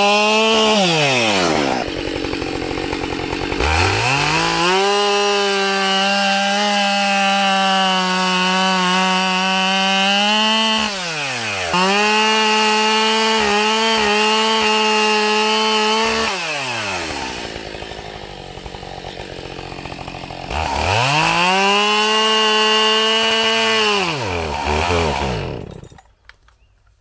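Husqvarna 572XP two-stroke chainsaw with a 28-inch bar bucking a log. It is held at full throttle for three long stretches, dropping back to idle between cuts, then falls away near the end.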